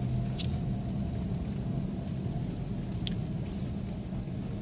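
Car moving off with a steady low rumble and a few brief high squeaks, about a third of a second in and again about three seconds in. This is typical of dirty rear drum-brake shoes stuck to the drums after the handbrake has been left on during parking, a noise that fades after a few metres or a few brake applications.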